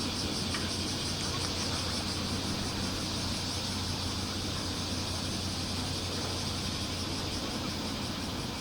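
Bear cicadas (kumazemi) singing steadily in chorus, a fast pulsing high buzz, over a steady low rumble.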